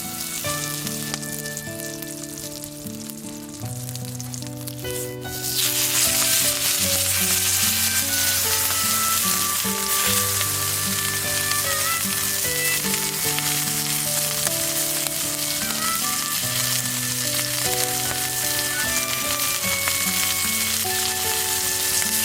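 Food sizzling over a fire, growing much louder about five seconds in and then holding steady, under background music.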